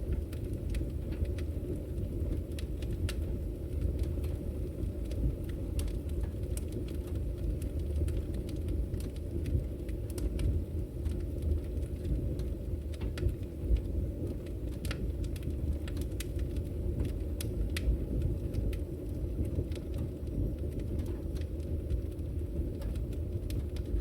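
Fireplace fire burning with a steady low rumble and irregular sharp crackles and pops.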